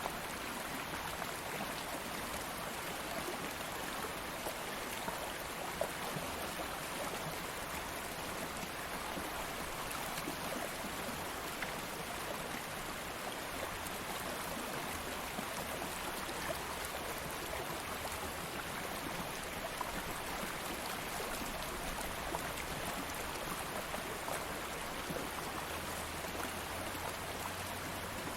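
A shallow stream flowing steadily over rocks, a continuous rushing and babbling of water with small splashes scattered through it.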